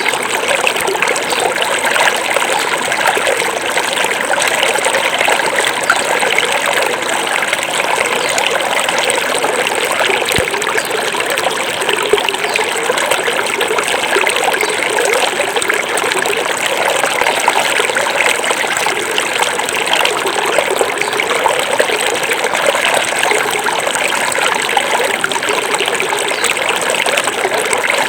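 Small forest river flowing, a steady babble and trickle of water over stones.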